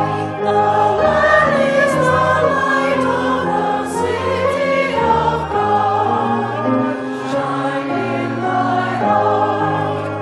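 Choir singing a hymn over sustained accompaniment chords, the bass notes changing every second or so.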